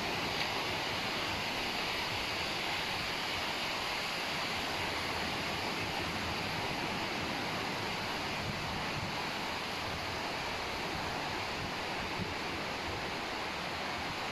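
Steady wash of sea surf on a beach, an even rushing noise without a break.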